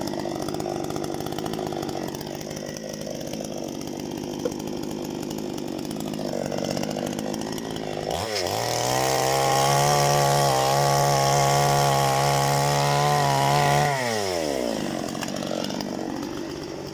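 Parma BP-058 two-stroke gasoline chainsaw running with uneven revs, then revved up sharply about eight seconds in, held at high revs for about five seconds, and let fall back.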